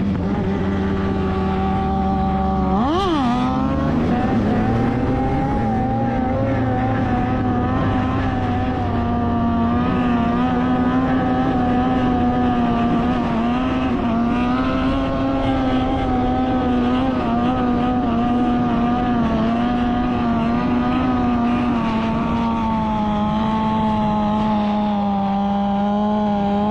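Motorcycle engine running at a steady speed, with one quick throttle blip about three seconds in that rises and falls in pitch.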